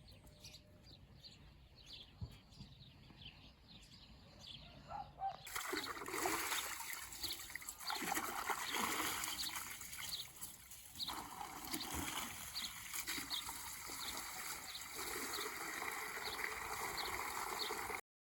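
Water splashing and trickling steadily, starting about five seconds in, with a small bird chirping over and over at an even pace.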